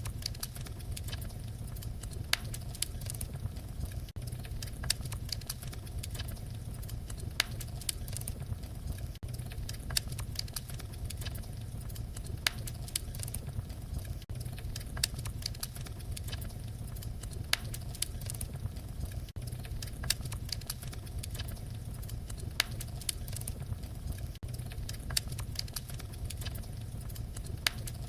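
Fire crackling: a steady low rumble of burning with irregular sharp pops and snaps, a few of them louder than the rest.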